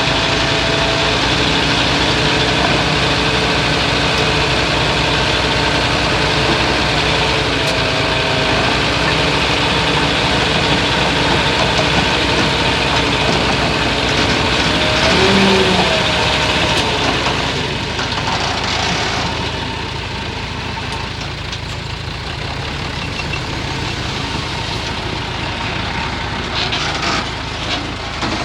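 Heavy diesel earthmoving machinery running steadily, with a few brief high tones over it. The engine gets quieter about two-thirds of the way through.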